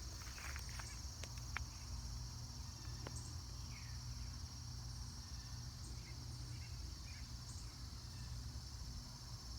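Steady outdoor insect chorus, a continuous high trilling, with a few sharp ticks in the first couple of seconds, faint short chirps now and then, and a low rumble underneath.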